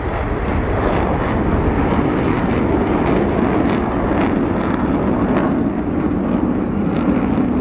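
Jet engine noise of a formation of F-16 fighter jets flying past: a steady, loud rushing roar.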